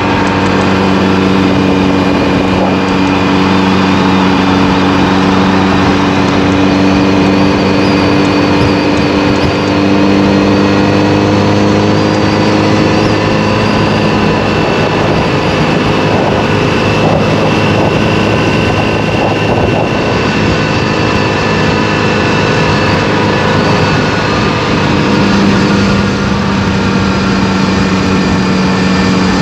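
Motorcycle engine running under way at a steady pitch, with wind and road noise. The engine note fades for about ten seconds midway, leaving mostly wind and road noise, then comes back.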